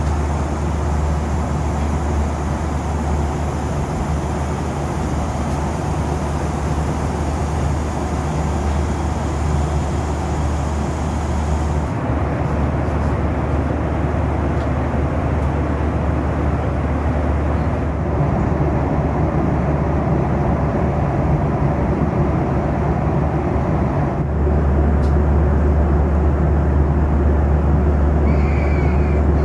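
Steady cabin noise of a Boeing 737 in flight: a low engine drone under the rush of air along the fuselage. The sound changes abruptly twice: the high hiss drops away about twelve seconds in, and the low hum grows stronger about twenty-four seconds in.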